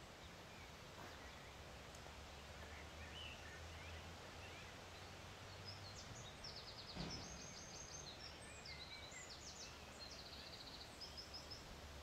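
Faint garden ambience: birds singing in quick high trills and chirps through the second half, over a low steady hum.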